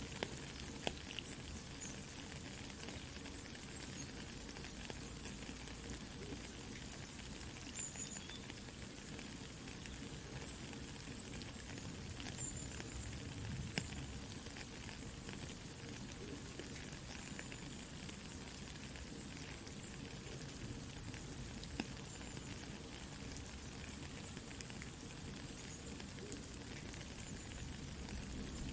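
Steady soft rain mixed with a crackling campfire: an even hiss of rain with scattered sharp pops and crackles from the burning wood, and a few faint high squeaks.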